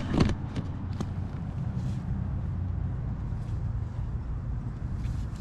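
A fishing rod swishes through a cast right at the start, followed by a single sharp click about a second in, over a steady low rumble.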